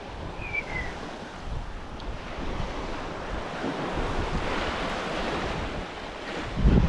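Wind on the microphone over the wash of surf, with a short high falling chirp about half a second in. The low rumble of the wind grows louder near the end.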